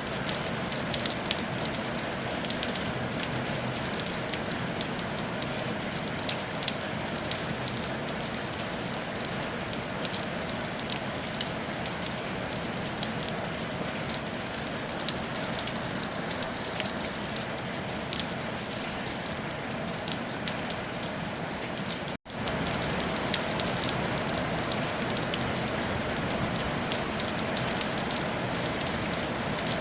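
Steady rain falling on a tile roof, an even hiss dotted with many separate drop taps. About two-thirds of the way through, the sound cuts out for a split second, then carries on at the same level.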